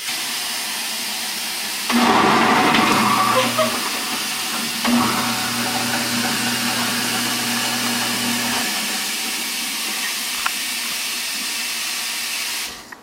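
Kitchen garbage disposal running on dry ice: a steady rushing hiss throughout, with the disposal motor's low electric hum coming in about 2 s in. The hum drops out briefly around a knock near 5 s, then runs on until about 9 s. The rushing stops suddenly near the end.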